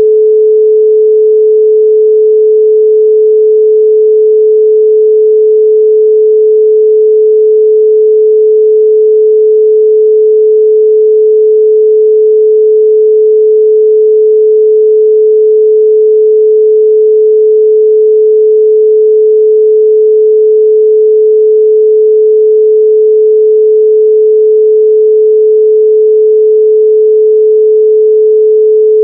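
Steady, loud 432 Hz pure sine tone: one unchanging pitch with no overtones.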